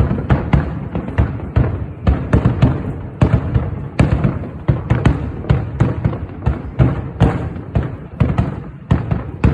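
Rapid barrage of aerial fireworks bursting: sharp bangs come several a second, overlapping with a continuous deep rumble.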